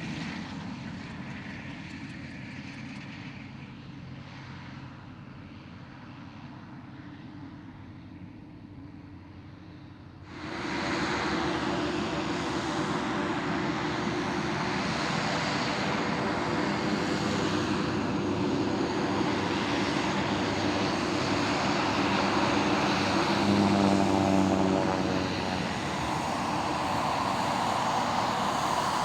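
Light propeller plane's piston engine: first a plane fading away, then about ten seconds in the sound jumps suddenly to an engine running close and loud. It is loudest about two-thirds of the way through, its pitch shifting a little.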